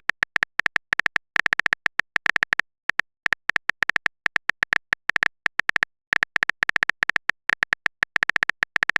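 Phone-keyboard typing sound effect: a rapid, uneven string of short high clicks in bursts, as a message is typed out.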